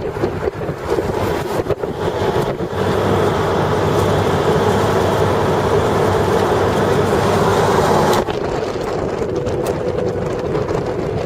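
Wind and road noise of a moving pickup truck, heard from its open cargo bed. The rush gets louder about three seconds in and drops off suddenly about eight seconds in.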